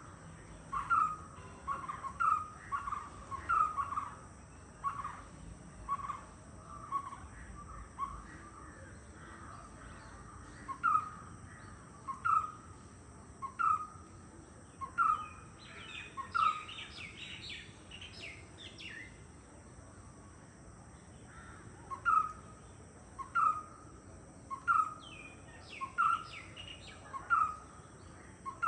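White-cheeked barbet calling: a short, monotonous note repeated about once a second, pausing for several seconds in the middle. During that pause another bird chirps higher.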